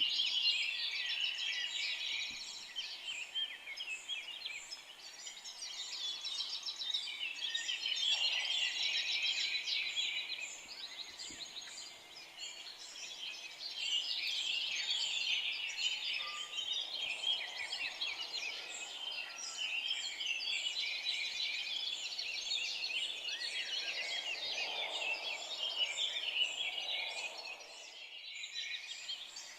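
Many forest songbirds singing at once: a dense, overlapping chorus of high chirps and trills that swells and eases every few seconds, thinning briefly near the end.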